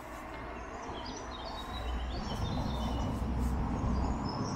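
Small birds chirping and singing, many short calls, over a low outdoor rumble that grows louder about two seconds in.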